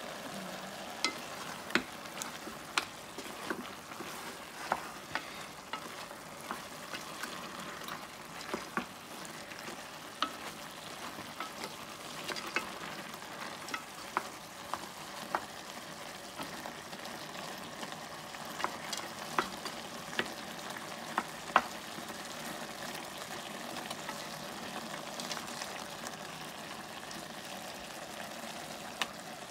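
Mutton pieces with onions and turmeric sizzling in a nonstick pot while being stirred with a wooden spatula. The spatula knocks and scrapes against the pot every second or so over the steady frying hiss.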